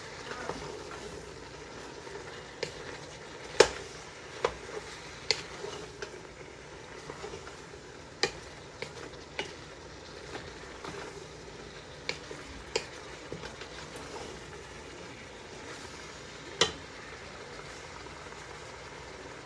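Green papaya strips and turkey tail frying in a stainless-steel stockpot with a steady low sizzle, stirred with a wooden spoon that knocks against the pot at irregular moments. The loudest knocks come about three and a half seconds in and near the end.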